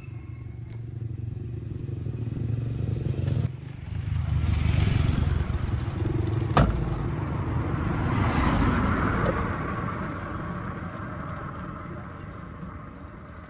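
A vehicle engine running, growing louder over the first few seconds and then fading away, with a single sharp knock about six and a half seconds in.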